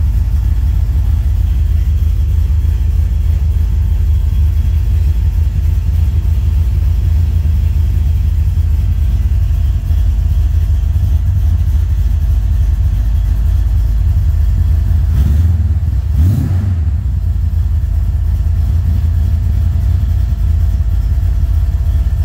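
Holden VC Commodore engine running steadily just after a cold start, heard from inside the cabin. About two-thirds of the way through there is a brief louder burst of noise.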